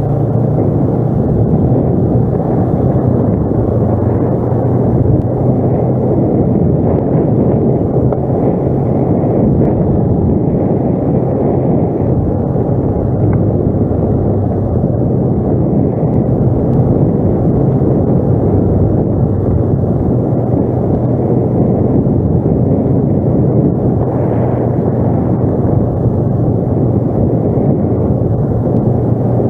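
ATV engine running steadily while riding, a constant low hum under a heavy rush of ride noise.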